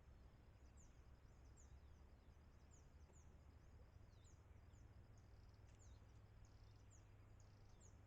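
Faint, quick high-pitched bird chirps repeating every half second or so, over a thin steady pulsing trill and a low rumble.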